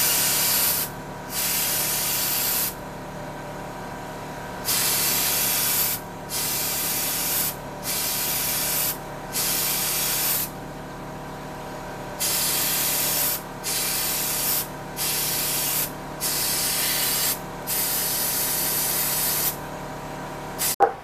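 Pressurised spray hissing in about eleven short bursts of one to two seconds each, with pauses between, over a steady hum. A sharp click comes near the end.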